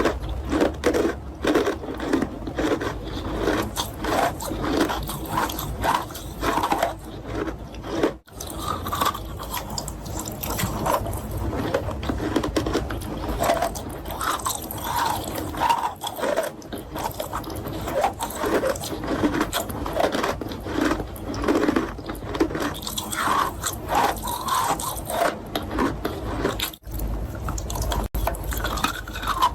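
Close-miked chewing of chalk: dense, gritty crunching and scraping between the teeth, going on without a pause except two brief sudden breaks, about eight seconds in and near the end.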